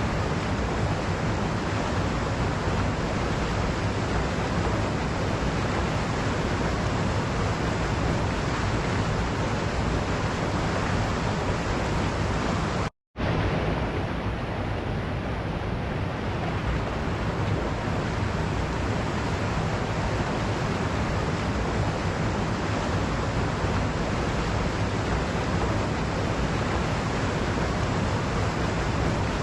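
Waterfall rushing in a steady, even roar of falling water. The sound cuts out completely for an instant a little before halfway through, then resumes unchanged.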